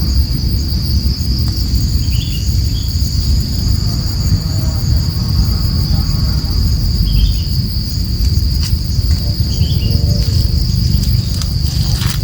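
Insects keep up a steady, high-pitched drone, with a loud low rumble underneath. Three short chirps cut in, at about two seconds, about seven seconds and about ten seconds in.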